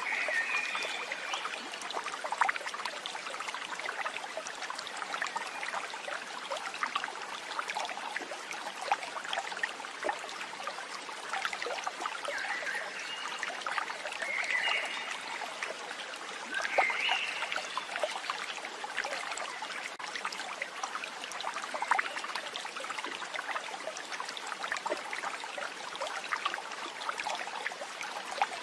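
Steady running water, like a trickling stream, with a few short high calls heard over it now and then.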